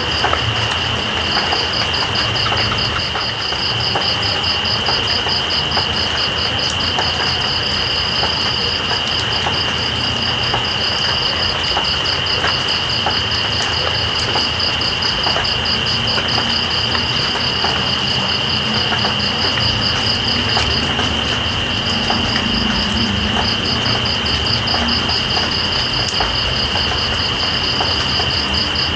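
Night insects trilling over steady rain: one holds a continuous high, steady trill while another sings a faster, higher pulsing trill that breaks off briefly a couple of times. Scattered small ticks of raindrops run through the rain's even hiss.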